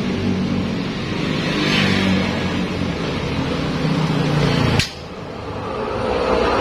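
An engine running steadily, cut off abruptly with a click about three-quarters of the way through, after which a fainter sound swells back up.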